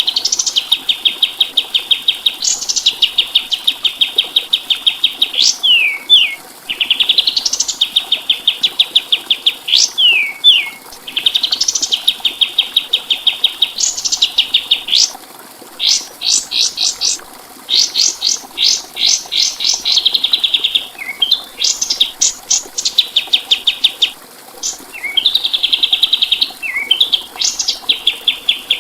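A 'kapas tembak' songbird singing over and over, as in a masteran tutor recording. Each phrase is a high, very fast rattling trill held on one pitch for about two seconds, opened by a quick rising note, with short falling notes and bursts of rapid chips between phrases.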